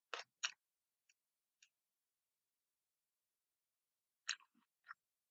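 Short, soft clicks and smacks of a mouth chewing food: two just after the start, two faint ones a second later, then a cluster of three near the end, with near silence between.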